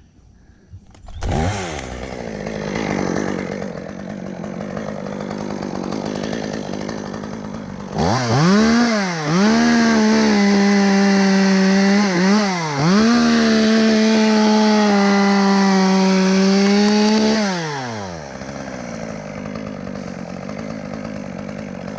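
Chainsaw revving up about a second in and idling, then held at full throttle for about ten seconds with two brief dips in pitch, before dropping back to idle and stopping near the end.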